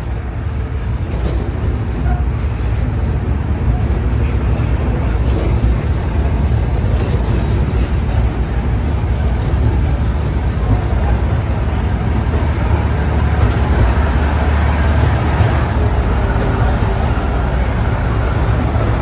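Amusement-park train running, a steady low rumble that grows slightly louder as it goes.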